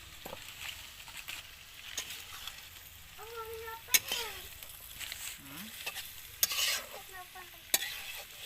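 Chicken curry sizzling in a pot while being stirred, with a spoon scraping and knocking against the pot several times. A short pitched call is heard briefly around the middle.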